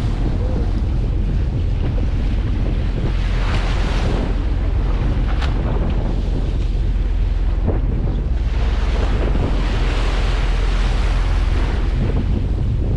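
Wind buffeting the microphone on a boat at sea, over a steady low rumble, with the wash of the sea swelling louder twice.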